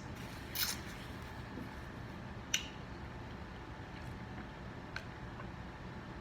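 Close-miked eating sounds: wet mouth noises over a steady low background, with three short sharp smacks or clicks about half a second, two and a half and five seconds in.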